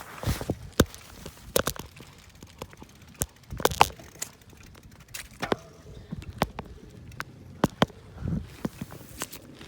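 Bicycle being ridden: irregular clicks and knocks from the bike rattling and the handheld phone being handled, with a few short low rumbles on the microphone.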